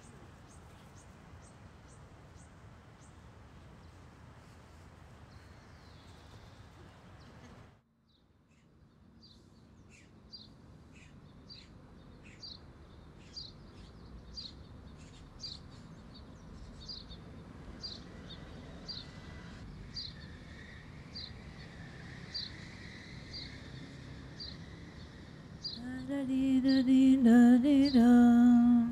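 Steady outdoor background hiss with faint high chirps, cut off suddenly about eight seconds in. Then a bird repeats a short high chirp about every two-thirds of a second over quiet outdoor ambience. Near the end a voice hums a slow, wavering melody, the loudest sound.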